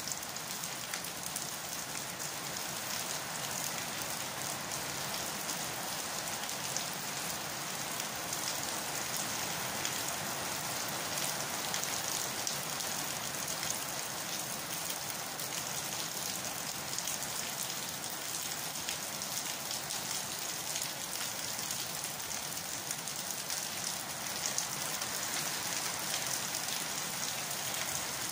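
Steady rain falling on leaves and a concrete wall: an even hiss of many drops, unchanging throughout.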